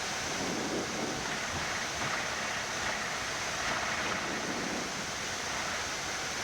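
Steady rushing noise inside a Boeing 787 flight deck while taxiing: cockpit air-conditioning airflow blended with the engines running at taxi power, with no change in level.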